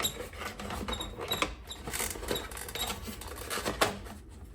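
Parts of a Thermaltake TR100 small-form-factor PC case being handled and worked loose: a busy run of small clicks, scrapes and squeaky scratching, like mice in there.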